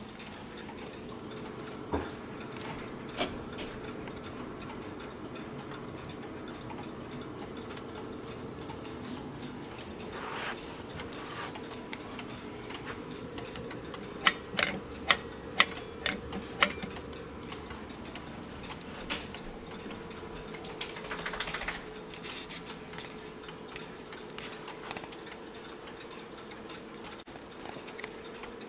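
Howard Miller 610-983 grandfather clock ticking steadily. About halfway through comes a quick run of about six sharp metallic clicks, each with a brief ring.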